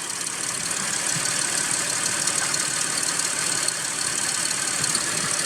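2005 Toyota Highlander's V6 engine running steadily, with a constant hiss over it. It is running rough from a misfire that the scanner reports on cylinders 2 and 6.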